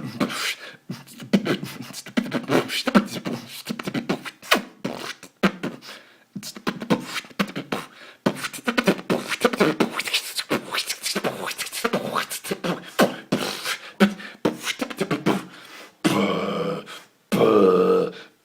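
A man beatboxing solo: a fast run of mouth-made percussive hits and clicks, closing near the end with two held, hummed vocal tones.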